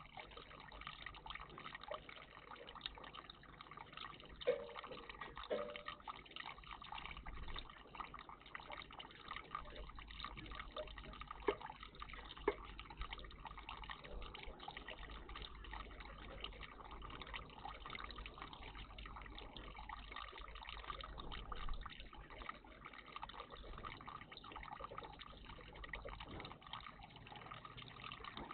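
Water trickling and splashing in a garden bird bath, steady throughout, with a few short sharp ticks, two of them louder and about a second apart midway.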